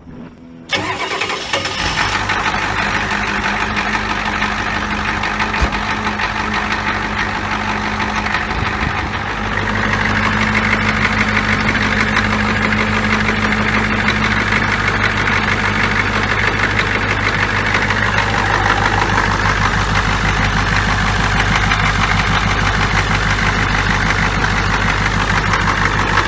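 Diesel engine cranked over by a reconditioned battery and catching within a second or two, then running steadily at idle. About nine seconds in its low rumble grows deeper and a little louder.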